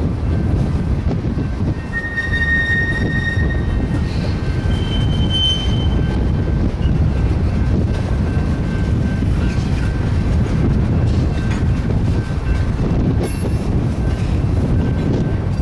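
Freight train of tank cars rolling past, a steady rumble of wheels on rail, with brief high wheel squeals about two seconds in and again about five seconds in.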